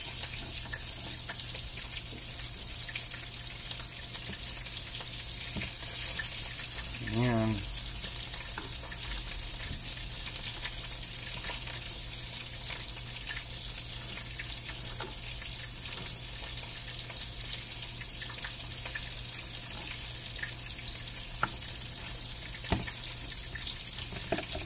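Pork steak frying in a pan with a steady sizzle, and a few sharp knife ticks on a plastic cutting board near the end.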